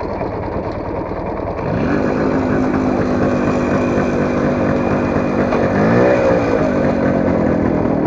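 Motorcycle engine revving up about two seconds in, then running steadily under throttle, with a brief rise and fall in revs about six seconds in.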